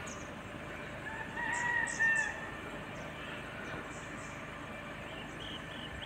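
A bird gives one drawn-out call lasting about a second, starting about a second in. Brief high chirps of small birds come and go around it over a steady background hiss.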